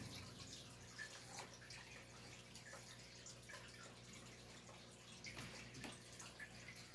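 Faint trickling and dripping of aquarium water, with scattered small drips over a low steady hum.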